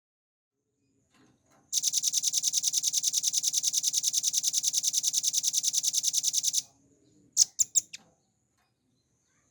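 Velvet-fronted nuthatch singing: a long, very rapid, high trill of evenly repeated notes lasting about five seconds. It is followed by three or four short sharp call notes.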